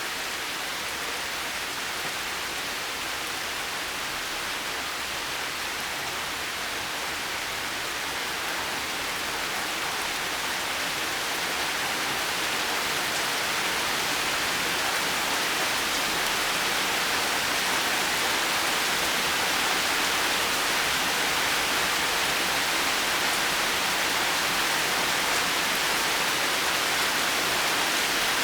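Steady heavy rain falling and pattering on surfaces, a dense even hiss that grows gradually a little louder partway through.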